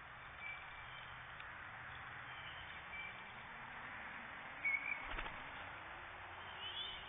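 Steady outdoor hiss through a trail camera's microphone, with a few short, high bird chirps, the clearest about two-thirds of the way in, followed at once by a brief knock.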